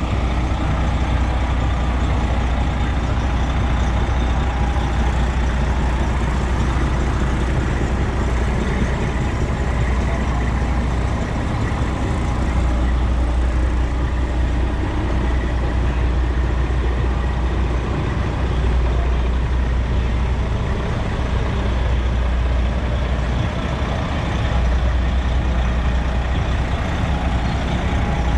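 Big-rig diesel trucks running as they roll in: a steady, heavy engine rumble.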